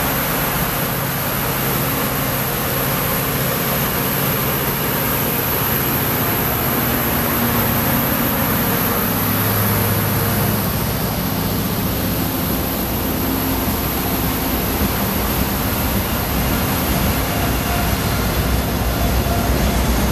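Train passing close by: the drone of two F40 diesel locomotives' engines mixed with steady wheel-and-rail noise. It grows a little louder near the end as the second locomotive draws level.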